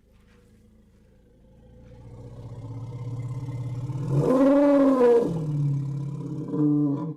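Elephant vocalising: a low rumble swells into a loud roaring call that rises and falls in pitch, then a shorter second call near the end that cuts off suddenly.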